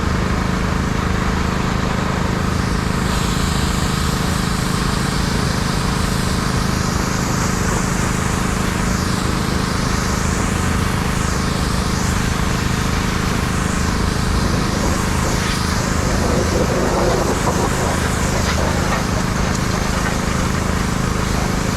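Pressure washer running steadily, its engine humming under the hiss of the water jet on the truck; the hiss rises and falls as the spray is swept back and forth.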